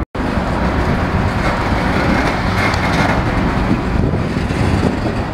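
Freight train boxcars rolling past, a loud steady rolling rumble of wheels on rail that cuts in after a brief break at the very start.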